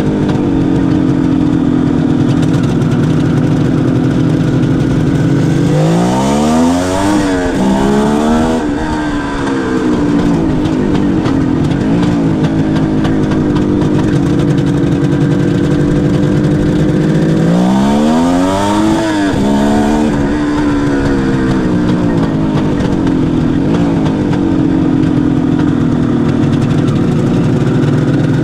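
Suzuki GT550's air-cooled two-stroke three-cylinder engine running at a steady speed. Twice, about six seconds in and again near eighteen seconds, its pitch climbs steeply, drops back and climbs again before settling to the steady note.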